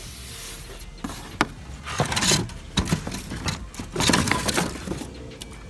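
Hands handling the new radiator, its packaging and radiator parts: scattered clicks and knocks with a few short bursts of rustling and scraping.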